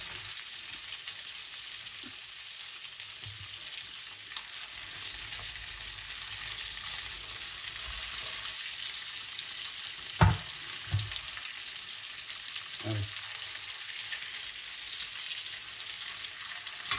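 Octopus tentacles sizzling in melted butter in a frying pan, a steady crackling hiss. A few light knocks come as the tentacles are moved with a carving fork, the loudest about ten seconds in.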